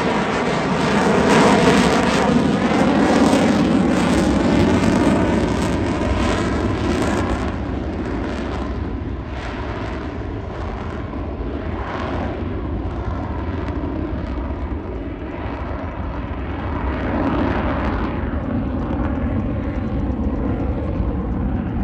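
F-35A Lightning II jet roaring as it flies its display, the tone sweeping as it passes. After about seven seconds the hiss drops away and the roar fades, then it builds again near the end.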